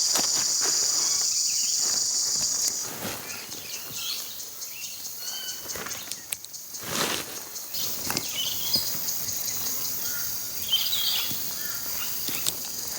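High, steady insect chorus of crickets or cicadas that drops away about three seconds in and returns near the end, with scattered small bird chirps and intermittent clicks and rustles of gear being handled.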